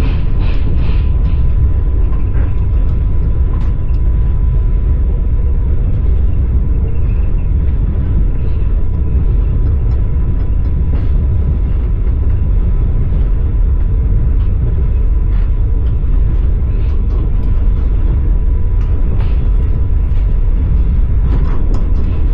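Passenger train carriage running on the rails, heard from inside: a steady low rumble with scattered light clicks from the wheels on the track.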